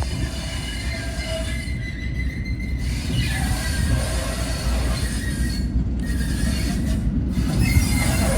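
A train running along the track with a steady low rumble that grows slightly louder, and the wheels squealing on and off against the rails.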